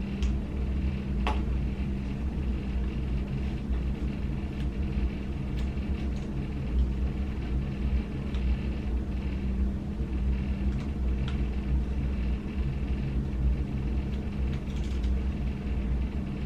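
Steady low hum and rumble, with a few faint light clicks.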